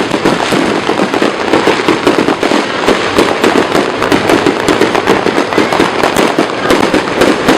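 Aerial fireworks going off in a dense, continuous barrage of rapid overlapping bangs and crackles.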